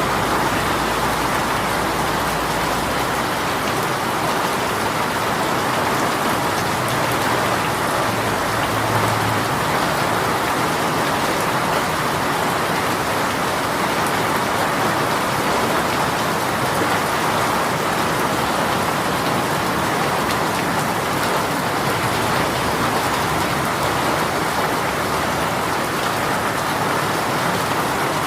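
Heavy rain shower falling and spattering on surfaces in a steady downpour.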